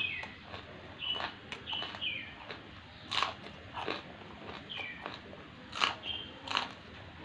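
Raw green beans being bitten and chewed: irregular crisp crunches, about a dozen over the few seconds.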